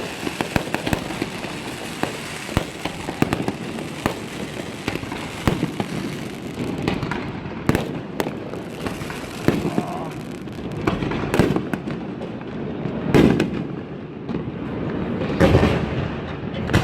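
Fireworks display going off in rapid succession: a dense run of bangs and crackling pops, with heavier booms about thirteen seconds in and again near the end.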